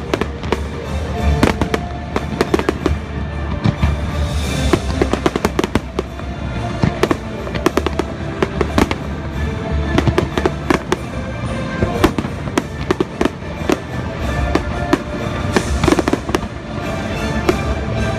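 Fireworks display: a dense run of sharp bursts and crackling reports, several a second, over the show's music.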